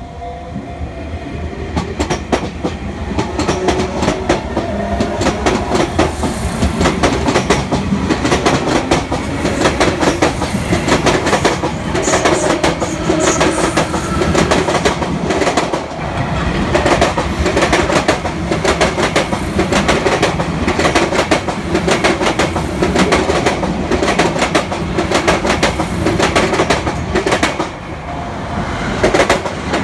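Train wheels clattering over rail joints at a level crossing: a long run of clickety-clack over steady rolling noise as the train passes, easing briefly near the end.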